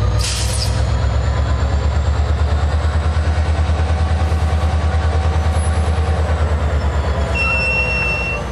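Freight train's diesel locomotives running close by, a heavy low throb that pulses rapidly and evenly. A brief high-pitched squeal near the end.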